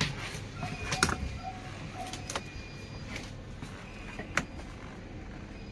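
A few sharp clicks and knocks over a steady low hum, the loudest knock about a second in and another a little after four seconds.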